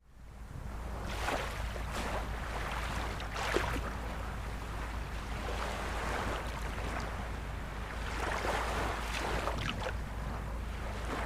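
Ocean surf: a steady wash of waves with several swells surging and breaking, over a constant low wind rumble on the microphone. It fades in from silence at the start.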